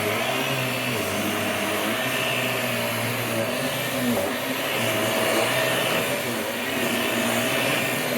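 Vax Air Stretch upright vacuum cleaner running steadily while being pushed over the floor, its motor note shifting a little as it goes.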